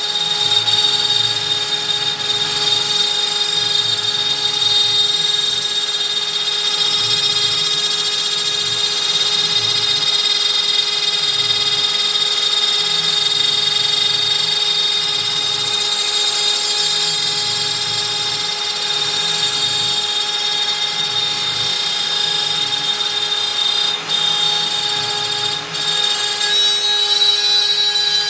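CNC router spindle running at 25,000 rpm, a steady whine, while a 4 mm up-down compression cutter cuts through beech on a Stepcraft M1000, the cutting noise rising and falling underneath.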